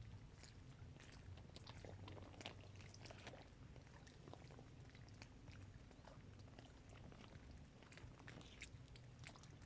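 Small waves lapping faintly against the shore of a dam reservoir: soft, irregular little splashes and clicks over a low rumble.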